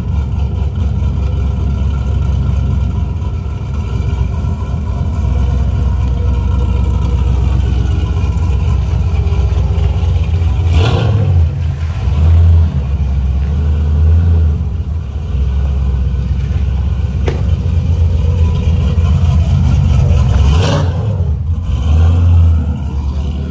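Car engines and exhausts rumbling steadily as vehicles roll past, with a louder rev-like swell about eleven seconds in and another about twenty-one seconds in.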